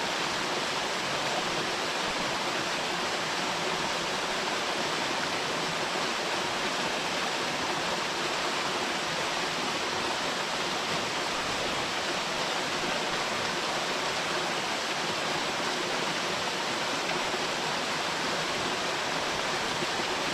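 Waterfall pouring steadily into its plunge pool, a constant even rush of falling water.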